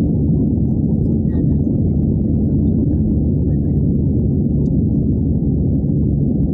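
Steady low rumble of engine and airflow noise inside the cabin of an Airbus A320 airliner.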